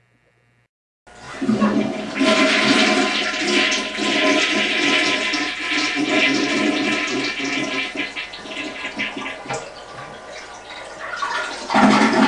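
Water rushing loudly, typical of a toilet flushing. It starts suddenly about a second in, eases off gradually, and surges briefly again near the end.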